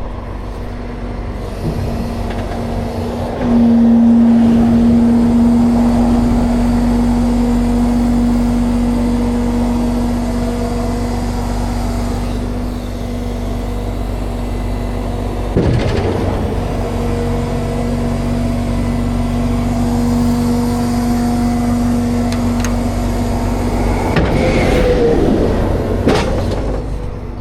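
Tow truck's engine running while its hydraulics lift the bed, with a steady loud hum that starts a few seconds in. About halfway through, a knock interrupts the hum before it resumes, and near the end a short falling tone sounds as the lift stops.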